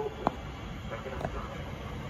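Low rumble of a Southeastern Networker electric train approaching along the track, with one sharp click about a quarter of a second in.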